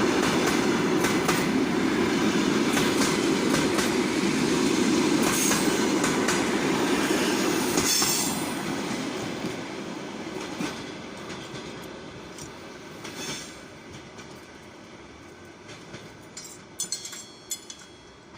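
Passenger train carriages rolling past, their wheels clacking over the rail joints. Loud for about the first eight seconds, then fading away, with a few faint sharp clicks near the end.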